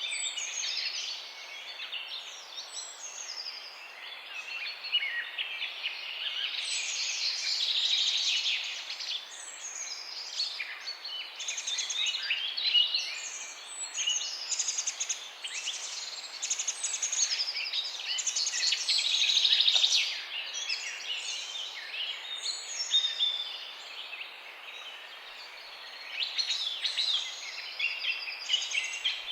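Many songbirds chirping and trilling at once, a dense chorus of overlapping high calls over a faint steady hiss.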